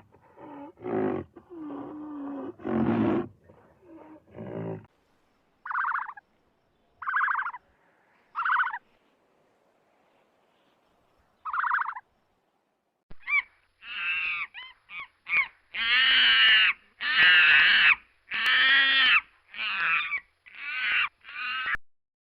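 A run of animal calls. Low, rough roaring calls come first. After a few seconds come four short, clear, high calls spaced about a second or more apart. From about halfway through comes a loud series of harsh, wavering calls, one after another.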